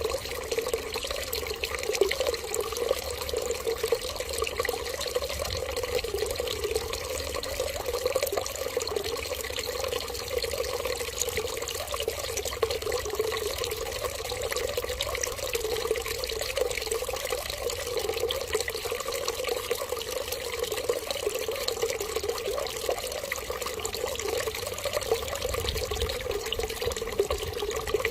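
Water running and trickling steadily, with no change.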